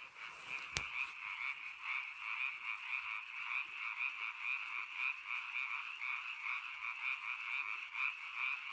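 Japanese tree frogs calling: a steady run of rapid, evenly repeated croaks, with one brief click a little under a second in.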